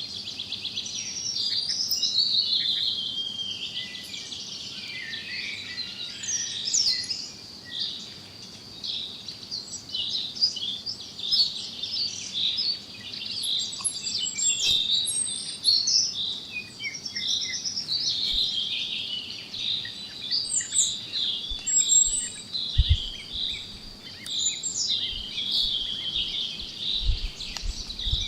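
Several songbirds singing and chirping at once: dense, overlapping high chirps and trills, with a faint steady high hiss behind them. A few low thuds come in near the end.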